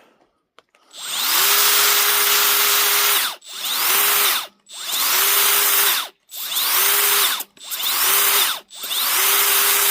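Handheld electric power sander run in short bursts on scorched carved wood: six triggers, each spinning up with a rising whine, running a second or two, then winding down, with brief pauses between.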